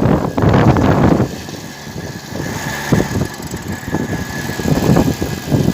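Motor vehicle running while being ridden, with loud, uneven rattling and road noise that eases for a moment a little over a second in and then builds again.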